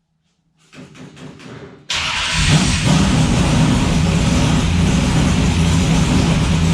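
Four-stroke engine cranking over with a few strokes, then catching about two seconds in and running loud and steady.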